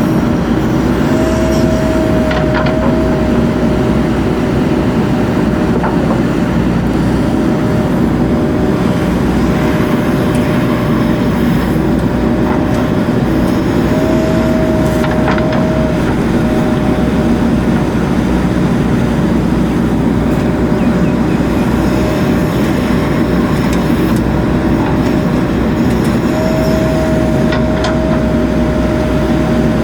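JCB 3DX Super backhoe loader's diesel engine running steadily and loud while it works, with a steady whine that steps up briefly three times, about a second in, near the middle and near the end.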